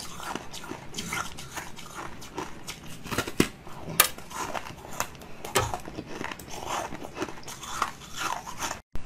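Close-up crunching and chewing of a hard, brittle purple crystalline food, a steady run of crackly bites with two sharp loud cracks about three and a half and four seconds in.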